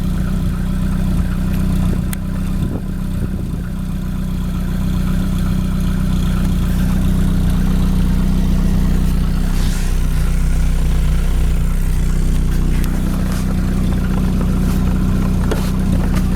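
A vehicle engine running steadily, getting a little louder about five seconds in and holding there.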